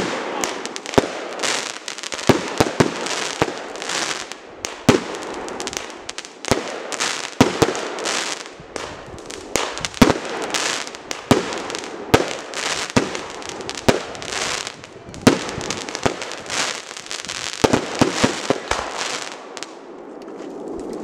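Aerial firework shells bursting in quick succession: sharp bangs about once a second, with crackling in between. The barrage dies down near the end.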